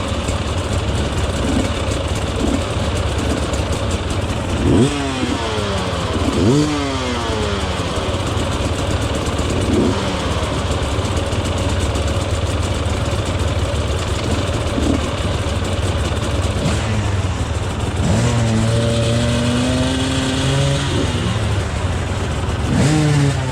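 Enduro dirt bike engine running under a steady low drone, blipped into sharp revs about five and six and a half seconds in. It is revved up in a longer climb near the end, with one more quick rev just before the end.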